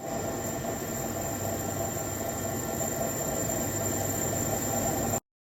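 A machine running steadily, a constant whir with a thin high whine over it, cutting off abruptly about five seconds in.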